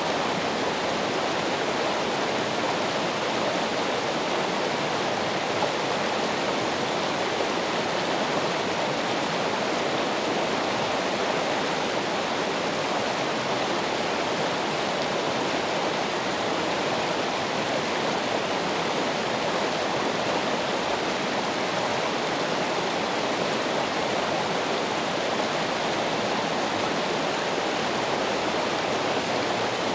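Running water rushing steadily, an even unbroken sound without splashes or breaks.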